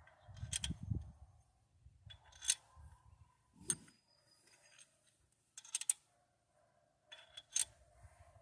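Metal hand tools and engine parts clinking and clicking in short, separate knocks, with quieter handling and rubbing between them.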